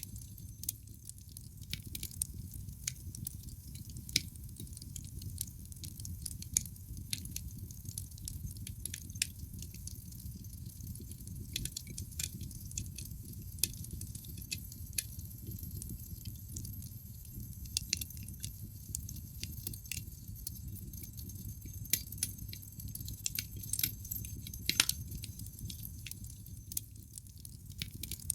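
Wood fire burning in a fireplace: irregular sharp crackles and pops of burning logs over a low, steady rumble of the flames, with a louder pop about 25 seconds in.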